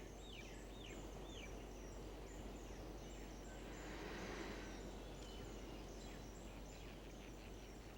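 Faint natural ambience with small birds calling: a quick run of falling chirps at the start, and thin high calls throughout. A soft rush of noise swells briefly around the middle.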